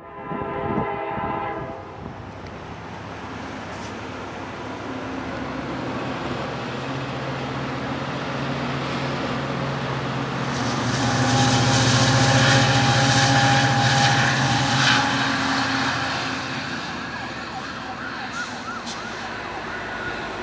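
A train horn sounds briefly at the start, then a diesel passenger locomotive and its cars pass close by a station platform, the rumble and engine drone building to loudest about 11 to 15 seconds in and then fading.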